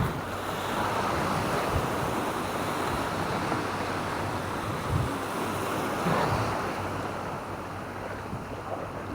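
Sea waves washing onto the shore in a steady, swelling wash that fades slowly in the second half, with wind buffeting the microphone in a few low thumps.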